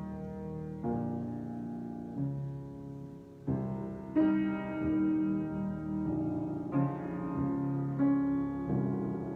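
Solo piano improvising slowly: chords struck and left to ring, with a new chord every second or two.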